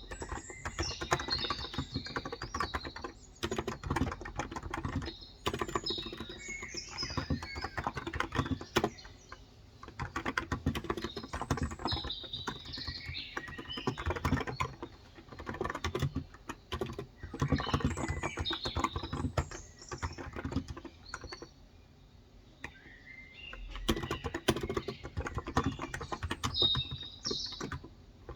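Typing on a Cox Endeavor electrostatic capacitive keyboard with 35 g switches: runs of rapid keystrokes broken by a few short pauses. Small birds chirp in the background throughout.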